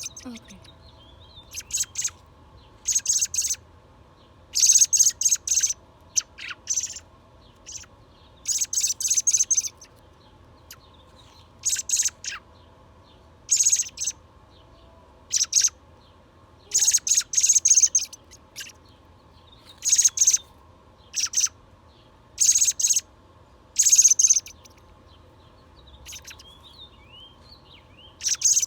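A rescued young bird calling in short, rapid, high-pitched rasping bursts, one every second or two: a fledgling's begging calls while being hand-fed.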